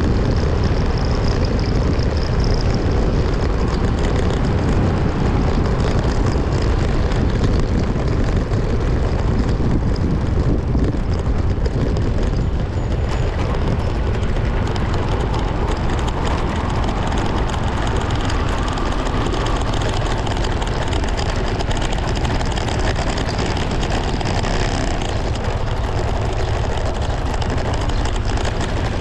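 A vehicle driving on the road: steady engine noise mixed with wind and road rush, with no breaks.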